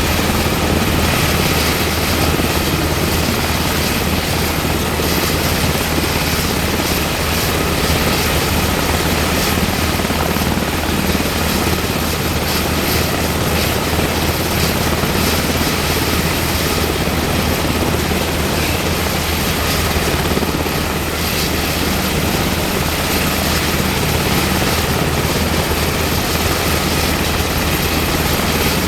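UH-60M Black Hawk helicopter running with its twin turboshaft engines and rotor turning: a steady deep rotor drone with a thin high whine above it.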